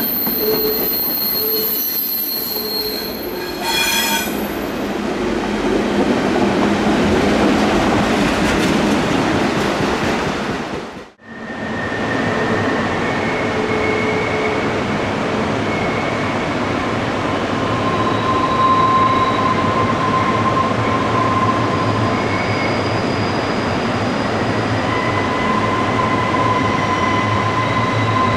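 Freight train cars rolling past with steady steel wheel squeal. About eleven seconds in, the sound drops out for an instant, then a second passing freight train follows, its wheels squealing at a couple of steady high pitches.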